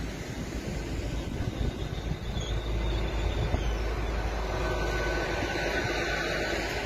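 Train running on the rails: a steady rumble of wheel and track noise that builds over the first few seconds and then holds.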